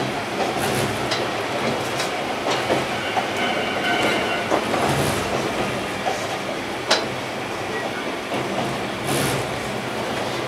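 Kominato Railway KiHa 200 diesel railcar running, heard from inside the car: a steady rolling rumble broken by sharp clicks of the wheels over rail joints, with a faint thin wheel squeal about a third of the way in.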